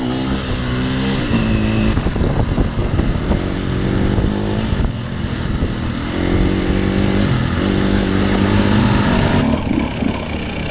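Enduro dirt bike engine running under throttle, its pitch stepping and gliding up and down, with steadier held stretches in between.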